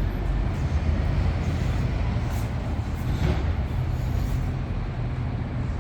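Steady low rumble of a vehicle engine running, with no distinct pitch or rhythm.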